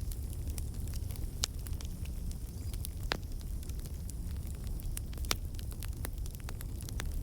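Burning wood logs crackling: a steady low rumble of the fire with frequent small clicks and a few louder pops, about one and a half, three and five seconds in.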